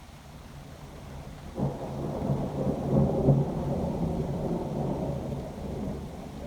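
A thunderclap breaks in suddenly about a second and a half in, then rolls on as a deep rumble that peaks around the middle and slowly eases.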